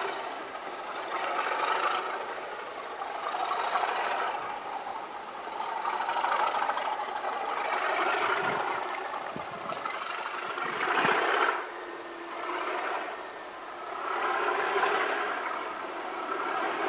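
Class 37 diesel locomotive D6732, with its English Electric V12 engine, working on the line. The sound rises and falls in waves every couple of seconds.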